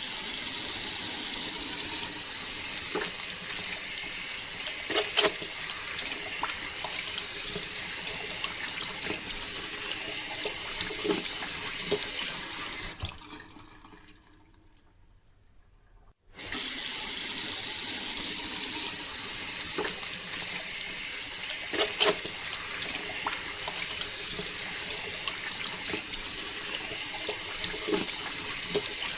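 A steady stream of water pours and splashes, like a running tap, from a miniature water pump's outlet. It fades out about halfway, then starts again abruptly. A sharp knock stands out twice.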